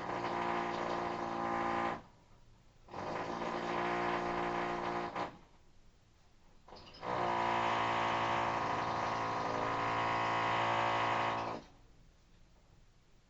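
Electric rotary hammer (perforator) drilling in three spells: two short runs of about two seconds each, then a longer run of about four and a half seconds, with pauses between.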